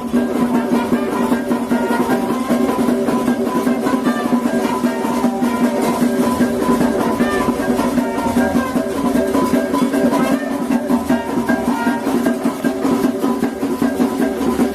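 Maracatu de baque solto band playing steadily: drums and percussion under a moving melody over a held low note.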